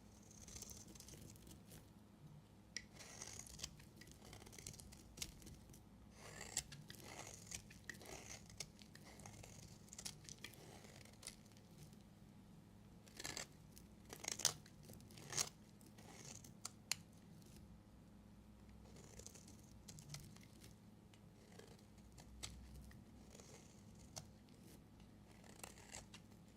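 Knife cutting into bars of soap: a run of faint, crisp cutting strokes with scattered sharp clicks, the loudest of them a little past halfway.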